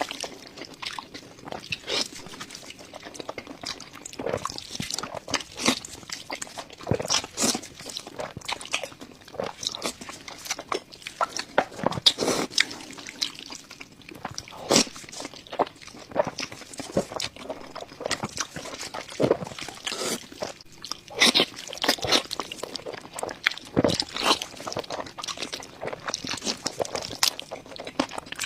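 Close-miked chewing and biting of crunchy food: irregular crunches and crackles throughout, with louder bites now and then.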